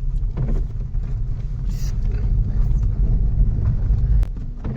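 A car driving, with a steady low rumble of engine and road noise that drops off sharply a little past four seconds in.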